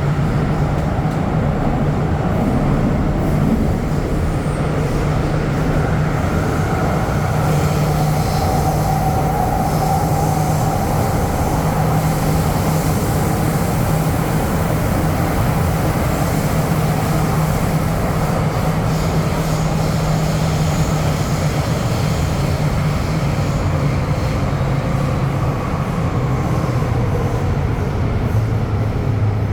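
MTR M-train electric metro train running between stations: a steady rumble of wheels on rail with a low, even motor hum and a faint shifting whine.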